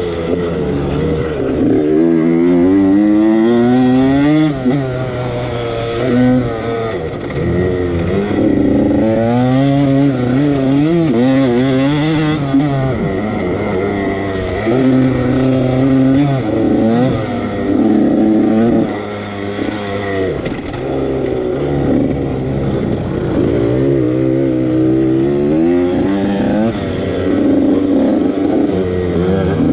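Husqvarna TC85's 85 cc two-stroke motocross engine being ridden hard, its pitch climbing sharply and dropping again over and over as the throttle is worked. A few brief noisy rushes are mixed in.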